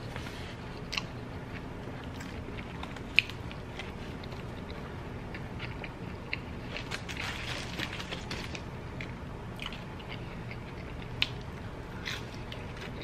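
A person eating chili cheese fries and onion rings close to the microphone: steady chewing and wet mouth sounds with scattered sharp crunchy clicks. A denser stretch of crunching comes about seven seconds in, and a bite into an onion ring near the end.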